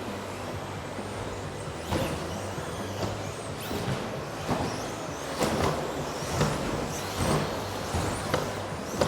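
1:10-scale electric RC short-course trucks racing on a dirt track. Motors whine in pitch glides as trucks pass, and there are repeated sharp rasping hits from about two seconds in, most frequent past the middle.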